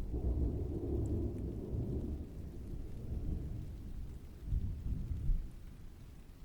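Distant thunder rolling over steady rain: a low rumble that swells twice more about four and a half and five seconds in, then fades away.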